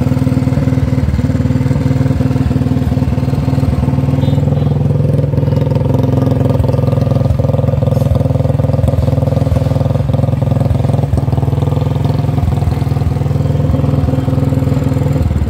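Royal Enfield Bullet 350's single-cylinder four-stroke engine running steadily at a raised idle. Its revs are held up by the pulled choke because the throttle cable is broken.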